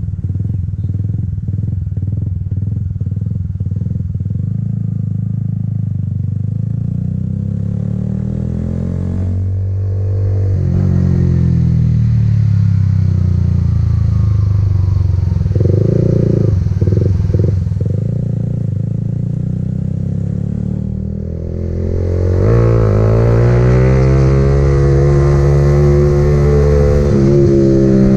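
Motorcycle engine running while riding: low and steady at first, rising in pitch as it speeds up about ten seconds in, then easing off briefly and rising strongly again near the end as it accelerates.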